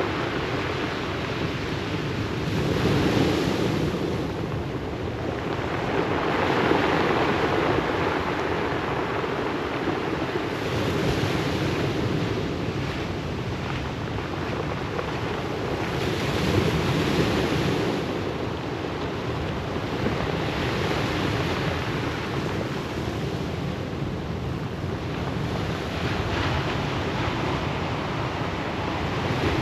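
Surf breaking and washing on a pebble beach, a steady wash that swells with each incoming wave about every four to five seconds.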